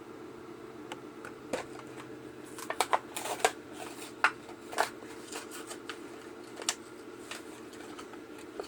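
Plastic blister packaging and cardboard card of a Hot Wheels diecast car being opened and handled: irregular crackling and sharp clicks, thickest in the middle, over a steady low room hum.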